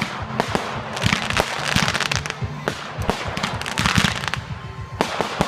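Fireworks display going off in rapid succession: many sharp bangs over dense crackling.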